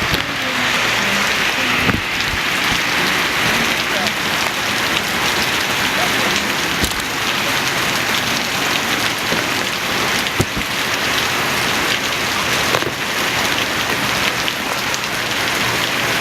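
Steady rain falling during Hurricane Irene, a continuous hiss with a few sharp taps of drops here and there.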